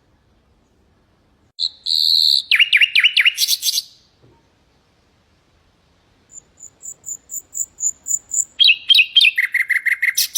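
Common nightingale singing two phrases. The first is a short held note followed by a fast run of slurred notes. The second is a series of evenly spaced repeated notes that grows louder and ends in a rapid trill.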